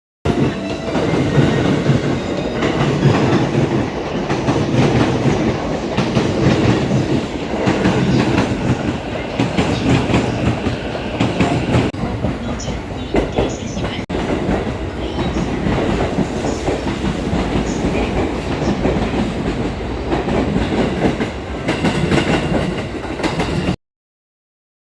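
A train in motion: continuous noise of its wheels running on the track. It starts abruptly and cuts off suddenly near the end.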